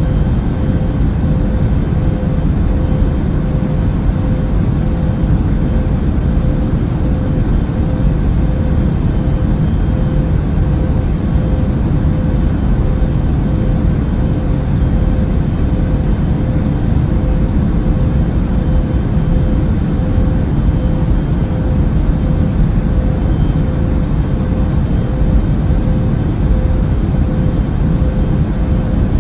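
Airbus A380 cabin noise in cruise flight: a steady, deep rush of engine and airflow noise with a faint constant hum running through it.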